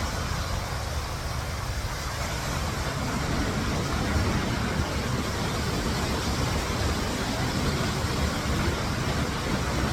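Waterfall pouring into its plunge pool: a steady, unbroken rush of falling water with a heavy low rumble.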